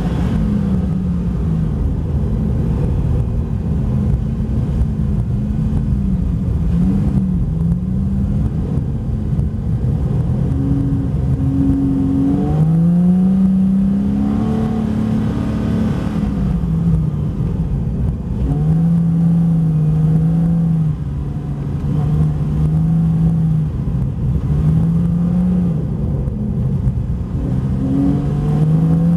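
Porsche 911 Carrera 4S (Type 991) flat-six engine under load, its revs rising and falling again and again as the car is driven and slid on ice.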